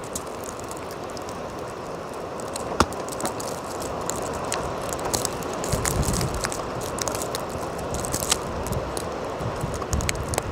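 Storm wind blowing steadily, with many small ticks and crackles through it and low gusts buffeting the microphone about six seconds in and again near the end.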